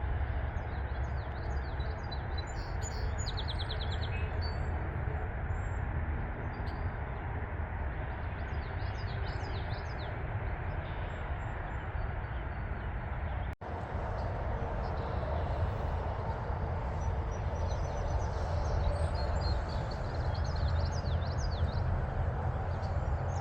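Small birds chirping and twittering, including a quick trill a few seconds in, over a steady low rumble. The sound cuts out for a moment about halfway through, then the chirping and rumble resume.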